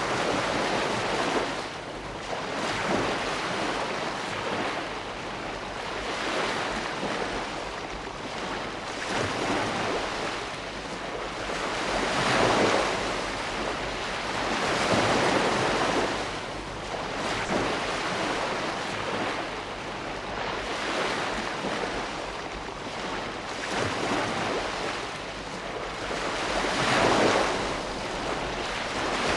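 Ocean waves breaking and washing on the shore, a continuous rush of surf that swells and ebbs every few seconds.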